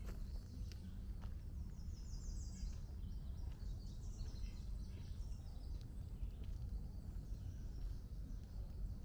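Birds singing in woodland, with a quick trill of short high notes about two seconds in and scattered chirps after it. Footsteps on a gravel trail and a steady low rumble on the microphone run under it.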